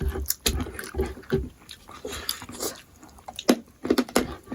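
Eating sounds close to the microphone: wet chewing and lip-smacking with irregular clicks as someone eats smoked pork.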